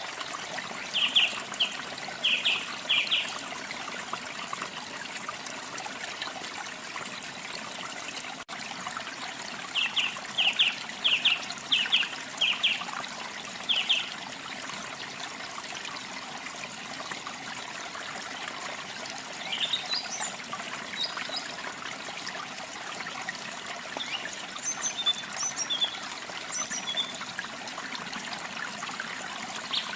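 Steady trickling water with a small bird chirping over it: a quick run of notes about a second in, another run from about ten seconds in, and higher scattered chirps past twenty seconds.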